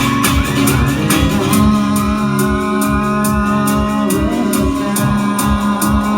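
Band music: electric guitar with held, slowly bending notes over a steady drum beat.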